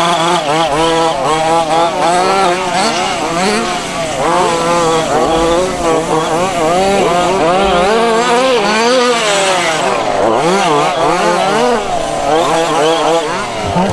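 Several 1:5 scale gas-powered RC buggies racing, their small two-stroke petrol engines revving up and down. The overlapping pitches rise and fall constantly as the cars accelerate and lift off.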